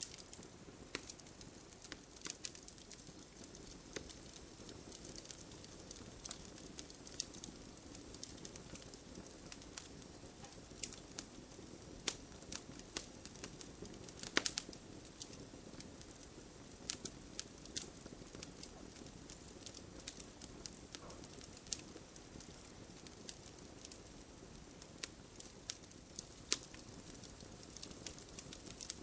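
Wood fire crackling in a fireplace, with irregular sharp pops over a low steady hiss; one louder pop about halfway through.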